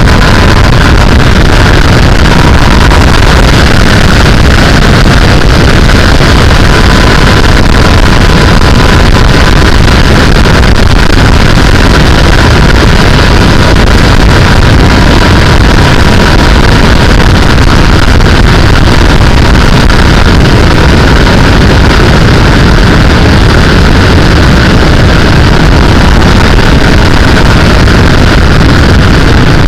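Onboard sound of a sportbike at a steady cruising speed: engine running under a loud, steady rush of wind on the microphone.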